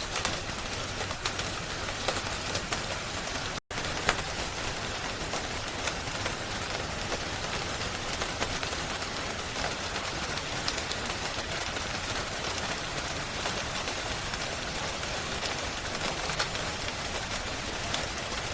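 Steady rain hiss mixed with scattered sharp crackles like a wood fire, in a rain-and-fireplace ambience track. The sound cuts out completely for a split second about three and a half seconds in.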